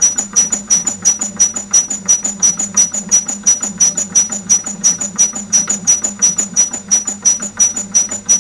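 Laboratory shaker squeaking in a steady rhythm, a high two-toned squeak about three times a second with each stroke of the platform, over a low steady hum from its motor.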